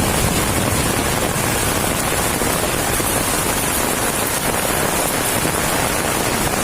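Heavy rain falling: a steady, even hiss of water with no pauses.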